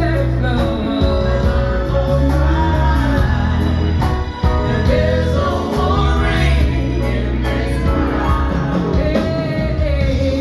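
Live band playing a slow song with a solo singer, a sung melody held over steady bass notes.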